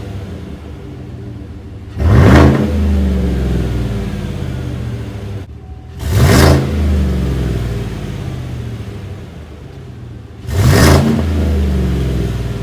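2017 Chevrolet Silverado's 5.3-litre V8 exhaust idling and blipped three times, each rev rising quickly and falling back to idle.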